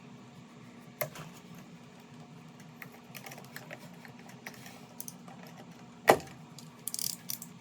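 Scattered small clicks and knocks of hand tools and electrical wire being handled during splicing work, with one sharp knock about six seconds in and a quick run of clicks just after it. A steady low hum runs underneath.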